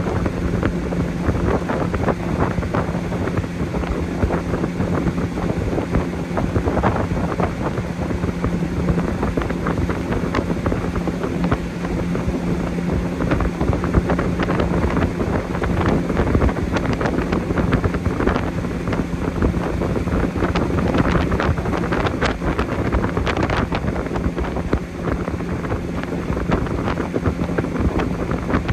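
Boat motor running at a steady speed under heavy wind noise on the microphone, with frequent short knocks over the top.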